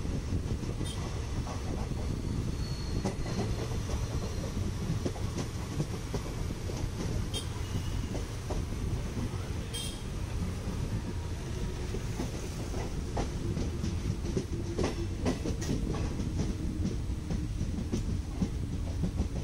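Passenger train coach rolling along the track: a steady low rumble of the wheels on the rails, with scattered clicks and clacks as they pass over rail joints.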